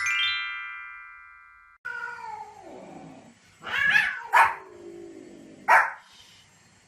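A short ringing chime fades out, then a dog gives a long whining call that falls in pitch, followed by three sharp barks.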